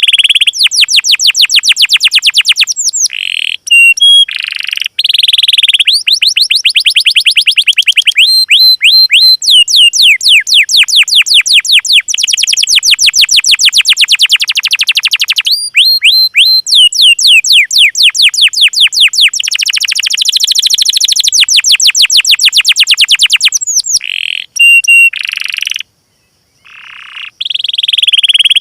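Recorded songbird song played as a training track: long runs of rapid, sharp descending notes, several a second, broken by short steady whistles and a brief pause near the end.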